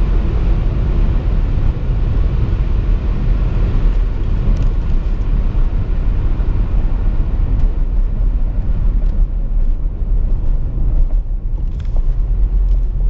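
Mercedes GL 450's 4.7-litre V8 pulling hard at high speed, its drone buried under a loud, steady rush of wind and tyre rumble. The sound briefly drops away about eleven seconds in.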